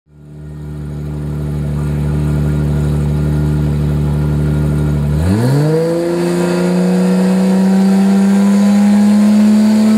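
Car engine fading in and held at steady revs, then revving up quickly about five seconds in and held at higher revs.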